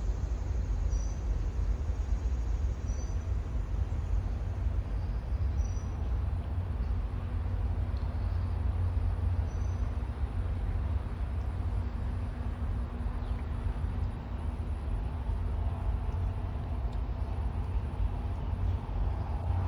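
Outdoor background rumble, most likely wind buffeting the microphone, steady and heavy in the low end throughout, with a faint steady hum under it and a few faint high chirps scattered through the first half.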